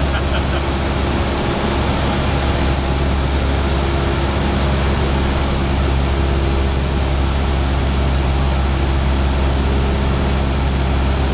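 Cessna 172R's four-cylinder piston engine and propeller running steadily in flight, a constant drone with even low tones under dense noise.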